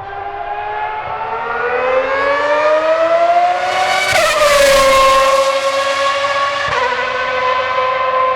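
1994 Ferrari 412 T1B Formula 1 car's 3.5-litre V12 at full throttle, its high shrill note climbing steadily in pitch and loudness for about four seconds, dropping sharply about halfway through, then holding a high steady note with a small step down near the end.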